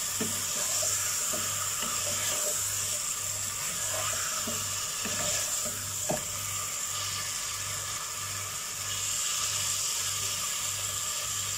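Mutton masala with yogurt sizzling in oil in a granite-coated pot while a spatula stirs and scrapes through it, with a few light knocks of the spatula against the pot; potatoes frying in a wok alongside add to the steady sizzle.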